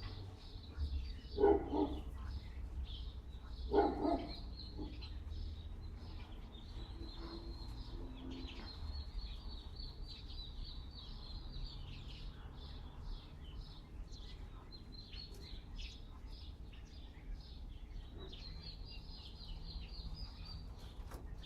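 Small birds chirping continuously in high, rapid notes, with a dog barking a few times in the first four seconds. A low wind rumble runs underneath.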